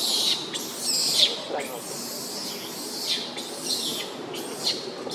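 Baby monkey crying in repeated short, high-pitched squeals, each falling in pitch, about one or two a second.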